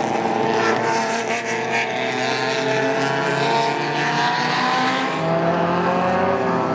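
Engines of several classic cars at speed on a race circuit, one passing close with its engine note shifting as it goes by. Another car's engine note comes in about five seconds in.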